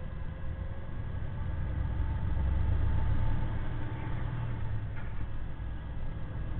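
Loaded semi truck's diesel engine heard from inside the cab as the rig drives, a low rumble that grows louder about two seconds in and eases back a little later.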